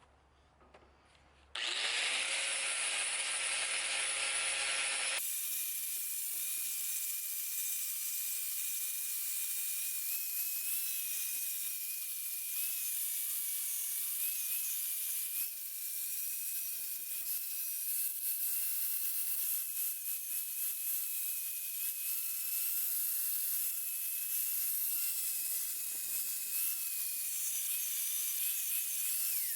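Power tool running with a steady high whine while an abrasive grinds against metal, restoring an antique hammer head. It starts abruptly about a second and a half in.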